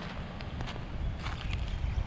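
Outdoor microphone rumble from wind, with scattered light clicks and taps over it.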